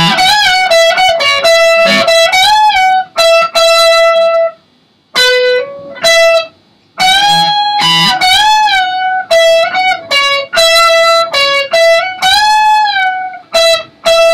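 Electric guitar playing a lead solo line high on the neck: single sustained notes with several string bends pushed up and released back, broken by two short pauses near the middle.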